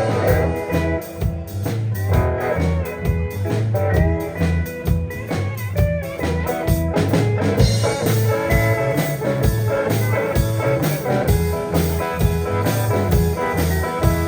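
Live band playing an instrumental passage in a bluesy style: guitar lines over a walking bass and a steady drum beat.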